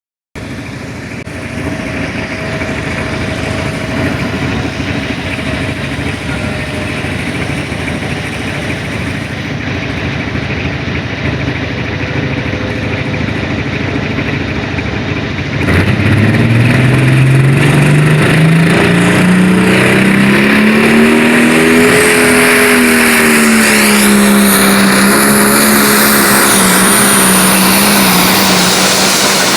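Limited Pro Stock pulling tractor's diesel engine running steadily, then opened to full throttle about halfway through with a sudden jump in loudness. Its pitch climbs over several seconds as it pulls the sled under load, dips slightly and holds steady near the end.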